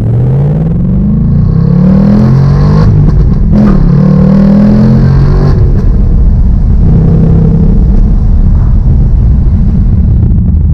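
2019 Ford Mustang Bullitt's 5.0-litre Coyote V8 accelerating under moderate throttle. Its note rises, drops at an upshift about three seconds in, and rises again through the next gear. From about halfway it settles to a steadier, lower cruise.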